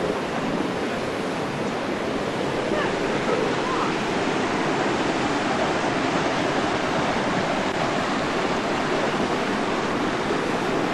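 Waterfall rushing steadily, a constant full hiss of falling water.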